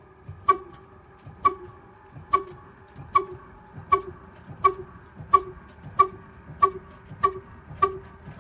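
Old single-cylinder stationary diesel engine firing slowly, with sharp, evenly spaced exhaust beats over a steady hum. The beats quicken from about one a second to nearly two a second as the engine gathers speed after starting.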